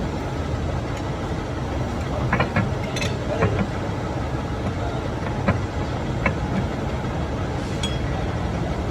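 A steady mechanical drone, like a motor or machine running, with a few short metallic clinks and knocks scattered through it.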